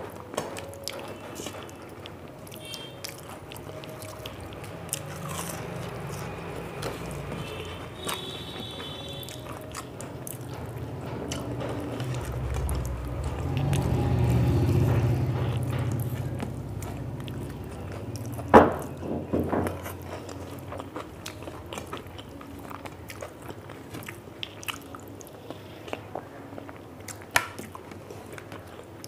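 A person chewing and crunching food close to the microphone, with many small crisp crunches and mouth clicks. A low rumble swells up and fades around the middle, and a single sharp knock, the loudest sound, comes a little after it.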